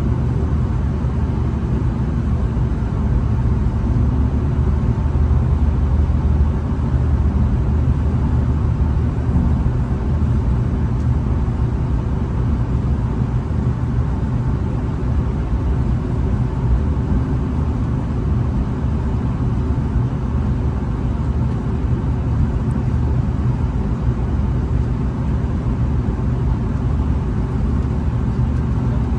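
Steady low rumble and hum inside the carriage of a V/Line VLocity diesel railcar on the move, a little louder for a few seconds near the start.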